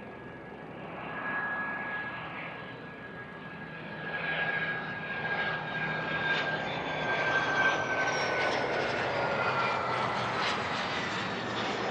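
Aircraft engine of a plane passing on the runway: a steady whine over rising engine noise that grows louder, with the whine dipping slightly in pitch as the plane goes by.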